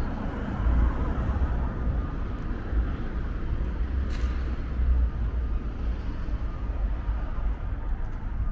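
Outdoor city ambience: traffic noise fading as a vehicle moves away, over a continuous uneven low rumble.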